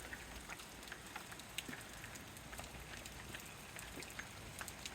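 Light rain pattering during a hurricane, with scattered drops ticking.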